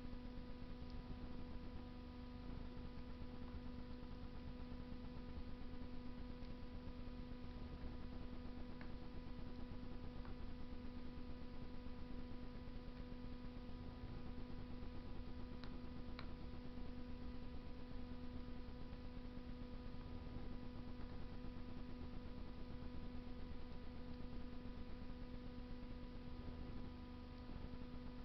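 A steady electrical hum over a faint hiss, with a few faint, sharp crackles from wood burning in a Russian stove.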